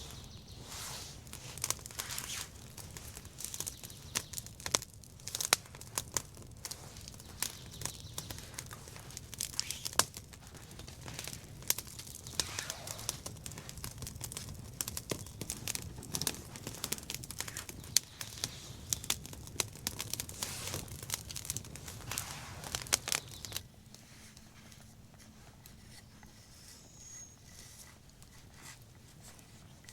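Rustling and crinkling with many sharp snaps and clicks, as of dry material being handled or broken. It stops suddenly about 23 seconds in.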